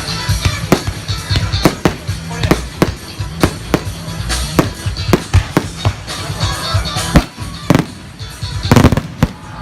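Aerial fireworks bursting: a long run of irregularly spaced loud bangs, about one or two a second, ending in a dense crackling cluster near the end, over music playing throughout.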